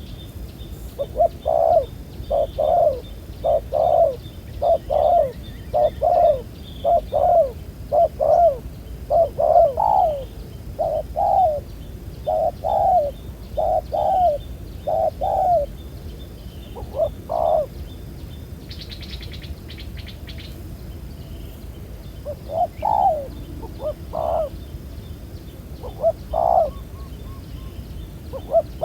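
Spotted dove cooing: a long series of low coos, about one every two-thirds of a second, which break off for about five seconds past the middle and then resume.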